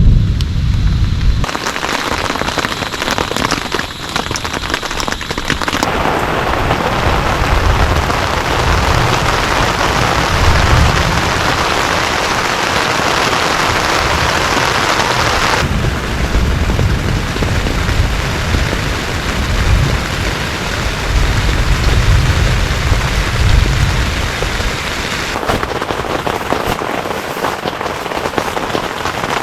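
Heavy rain pouring steadily, with a low rumble coming and going at times. The sound of the rain changes abruptly several times.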